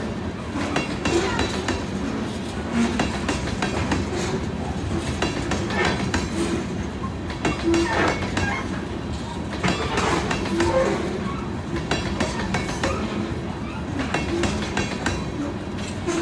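Loaded aggregate-rock hopper cars of a freight train rolling steadily past, wheels clacking on the rails over a continuous rumble, with occasional short squeaks.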